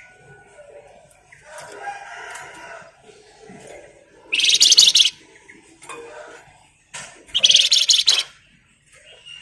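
Flamboyan songbird singing two loud, rapid buzzing trills (the 'ngebren' the title speaks of), each about a second long, the first near the middle and the second about three seconds later, with softer chirps between.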